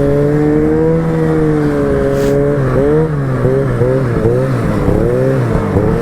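Snowmobile engine running at a steady pitch. From about three seconds in, the pitch rises and falls quickly, about three times a second, then settles steady again near the end.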